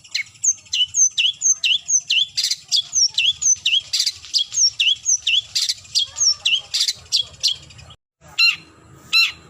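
Long-tailed shrike calling: a rapid run of short, harsh notes, about three a second, then after a brief break a few louder, more widely spaced harsh calls near the end.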